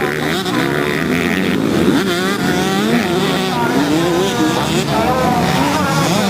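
Several motocross bike engines racing at once, their pitches rising and falling over each other as the riders rev through the track.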